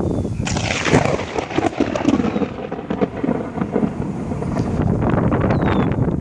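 Thunder from a very close lightning strike. It opens with a sudden sharp crack about half a second in, then crackles and rumbles on.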